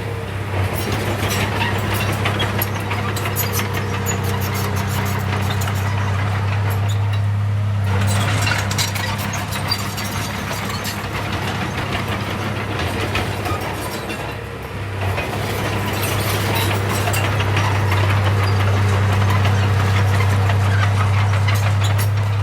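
Heavy diesel engine of earthmoving machinery running steadily with a constant low hum and scattered clanks and rattles; it eases off briefly about two-thirds of the way in, then picks up again.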